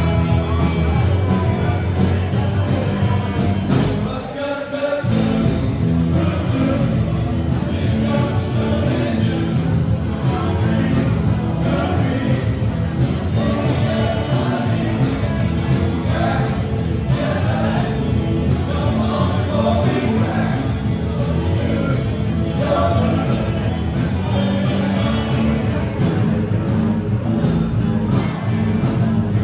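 Rock band playing live with sung vocals over a steady drumbeat, the band dropping out briefly about four seconds in before coming back in.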